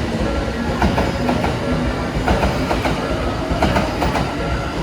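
A Tobu Isesaki Line train running through a closed level crossing, its wheels clicking over the rail joints with a steady rumble. Steady tones run under it, likely the crossing's warning bell.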